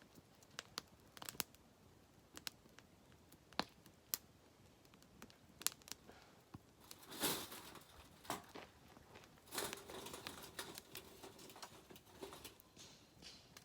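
Scattered small clicks and knocks, with brief rustling or tearing sounds about 7 and 10 seconds in, like things being handled and unwrapped at close range.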